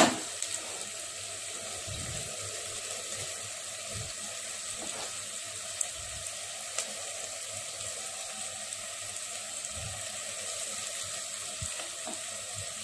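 Stuffed brinjal curry sizzling steadily in its pot on a gas stove, with a few faint clicks.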